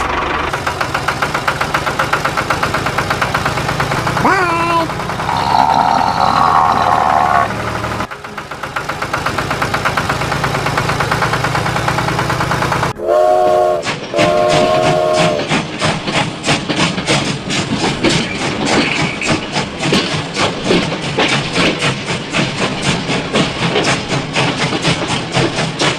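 Train running with a steady rhythmic clatter. A whistle sounds about five seconds in, and two short whistle toots come about halfway through, followed by a fast, even clicking of wheels.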